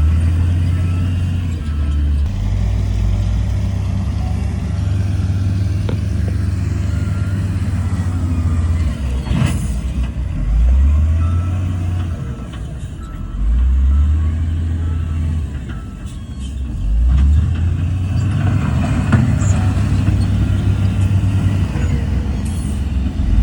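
Heavy earthmoving machinery's diesel engine running, its low drone stepping up and down in pitch as the load changes. Faint repeated beeps come and go, and there is one sharp knock about nine and a half seconds in.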